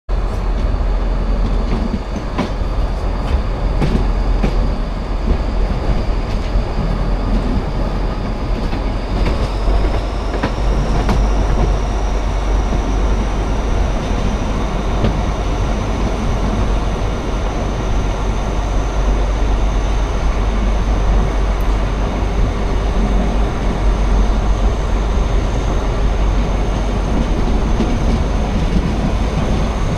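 Brohltalbahn narrow-gauge train running, heard on board: a steady rumble of wheels on rails with occasional clicks. A thin high whine rises in pitch about ten seconds in and then holds.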